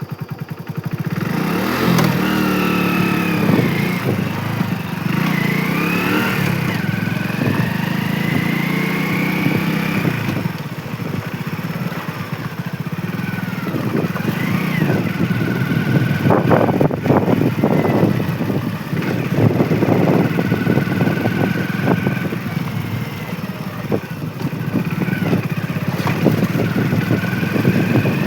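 Motorcycle engine running under way, its pitch rising and falling as the throttle opens and closes, with occasional sharp knocks or buffeting in the middle.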